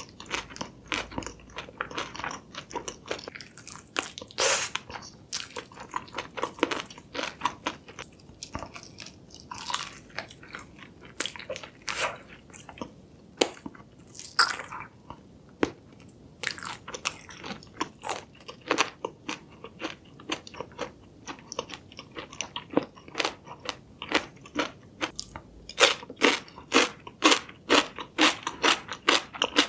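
Close-miked eating of a sauce-coated fried chicken leg: a steady run of crisp bites, crunches and chewing, coming thicker and louder near the end.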